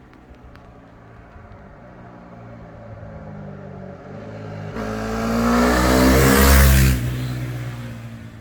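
KTM 390 Duke single-cylinder motorcycle engine and exhaust revving up. The note climbs in pitch and loudness, is loudest about five to seven seconds in, then drops away.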